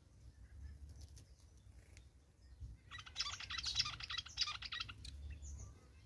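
A bird chattering: a rapid run of short notes lasting about two seconds, starting about three seconds in, with a few faint chirps before it.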